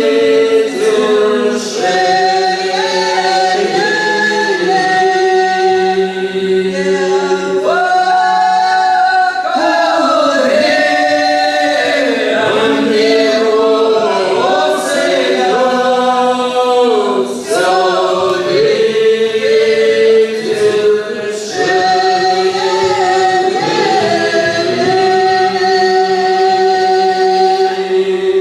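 Folk vocal ensemble singing a folk song in several voice parts without accompaniment, with long held chords. The singing stops at the final chord near the end.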